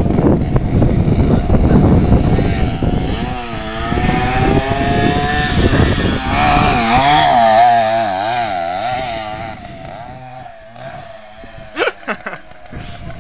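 Motorcycle engine revving hard: its pitch rises, then swings up and down repeatedly, and it fades away over the last few seconds. A short sharp sound stands out near the end.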